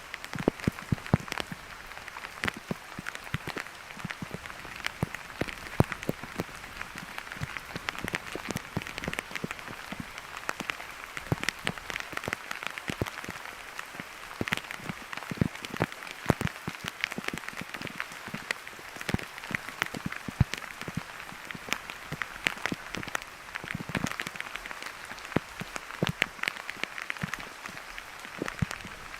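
Steady rain hissing down, with many irregular drops ticking sharply close by.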